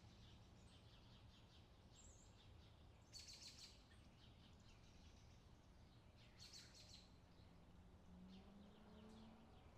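Faint outdoor summer ambience: birds chirping in short repeated calls, with a louder flurry of chirps a few seconds in and another later, over a low steady background hum.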